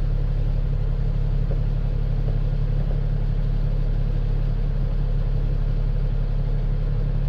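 Heavy tow truck's diesel engine running with a steady low drone.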